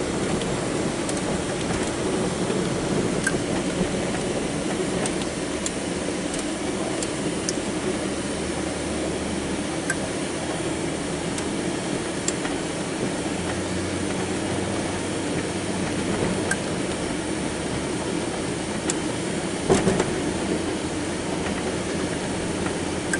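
Snow-plowing truck driving with its engine running, a steady rumble with a few faint ticks.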